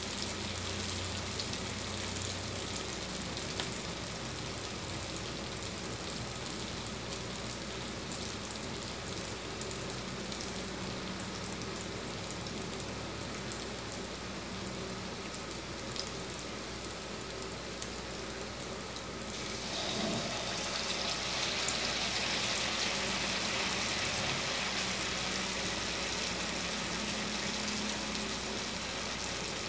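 Batter-coated stuffed bitter gourds frying in hot oil in a wok, a steady sizzle that grows louder and brighter about two-thirds of the way through as another piece goes into the oil.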